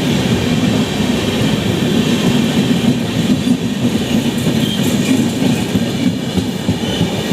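Train passing on the track, its wheels running on the rails in a steady loud noise with faint clicks now and then.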